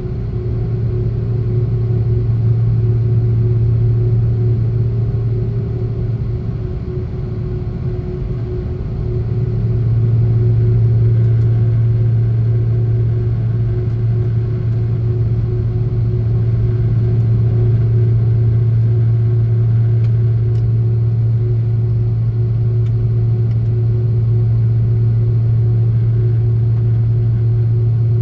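Airbus A330-300 with Pratt & Whitney PW4000 engines, heard from inside the passenger cabin: a steady low rumble with a constant hum over it. The rumble dips briefly about six seconds in and comes back by nine seconds.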